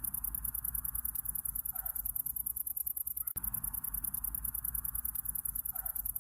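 Night insects, crickets or katydids, trilling steadily in a very fast high-pitched pulse over a low rumble, with a faint short call twice.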